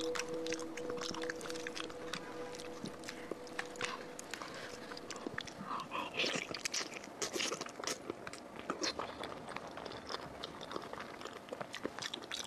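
Close-miked wet chewing, biting and lip-smacking on raw salmon sashimi, a dense run of short mouth clicks. A steady two-note hum sounds under it and fades out about three seconds in.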